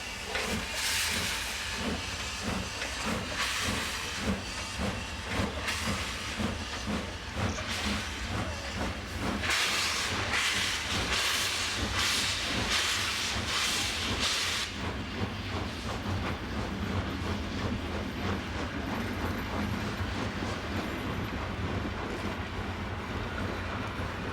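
Steam locomotive hissing steam, with a regular low beat of about one and a half pulses a second. About halfway through, a louder burst of steam hiss lasts some five seconds and cuts off suddenly.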